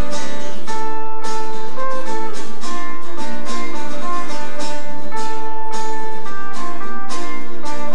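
Acoustic guitar playing an instrumental passage: strummed chords with a melody of single notes picked out over them.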